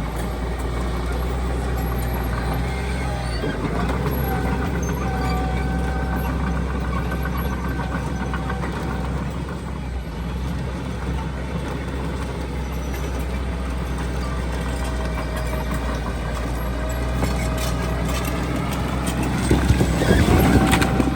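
Heavy diesel earthmoving machinery running steadily, with a faint whine that comes and goes. Near the end there is a louder burst of knocks and rumbling.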